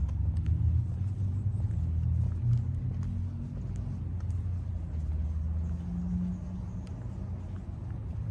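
Low, steady rumble of a car engine running nearby, with a faint hum whose pitch shifts slightly.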